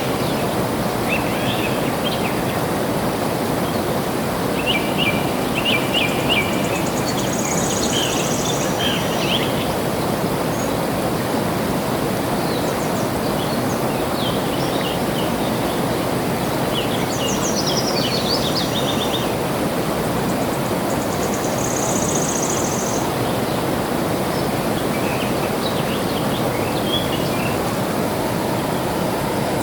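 Flowing water rushing steadily, with small birds chirping over it in short series of quick notes now and then and a falling run of notes about two thirds in. A high thin trill sounds twice.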